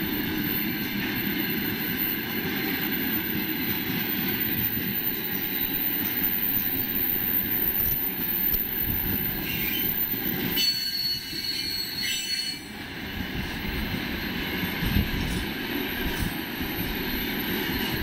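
Freight train of open gondola wagons rolling past, a steady rumble and clatter of wheels on the rails. About ten seconds in, a high wheel squeal rings for roughly two seconds, and a single sharp knock follows a couple of seconds later.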